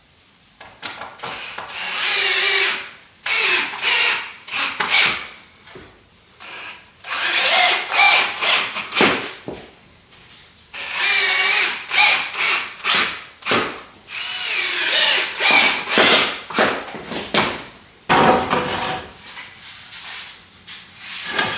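Power drill driving screws into wooden form boards, in about five runs of a couple of seconds each, the motor's pitch rising and falling as each screw goes in.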